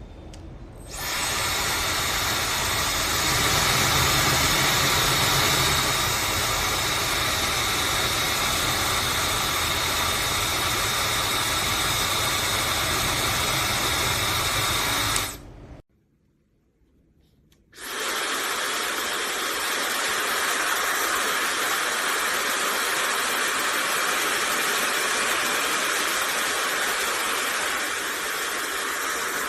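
Laifen SE high-speed hair dryer blowing steadily, switched off for about two seconds midway, then running again. The second run has less low rumble.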